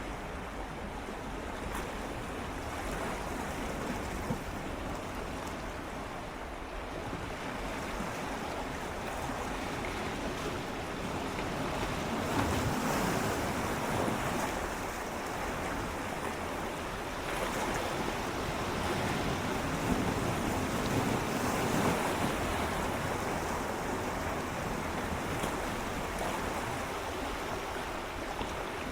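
Gentle ocean waves swirling and lapping against shoreline rocks, a continuous wash of water that swells louder through the middle and eases again near the end.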